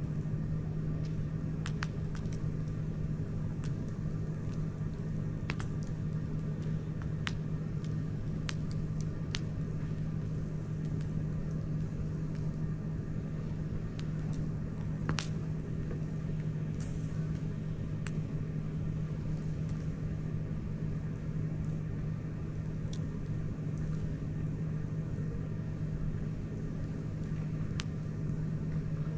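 Wood campfire crackling, with sharp pops scattered irregularly every second or so over a steady low hum and rumble.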